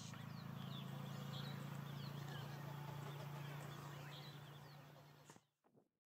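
Scattered short, high bird calls over a low, steady hum that swells and then fades. Everything cuts off suddenly about five and a half seconds in.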